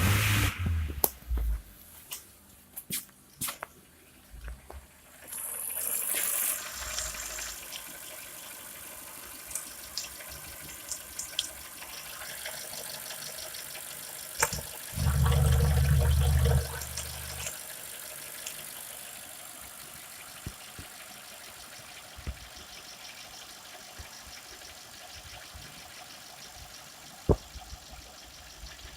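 Mitsubishi 4G13 1.3-litre inline-four petrol engine running at idle, with a brief louder low burst about halfway through.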